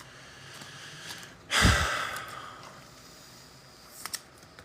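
A heavy exasperated sigh, the breath hitting the microphone about one and a half seconds in with a low pop and a hiss that fades over about a second. A few light clicks of card handling follow near the end.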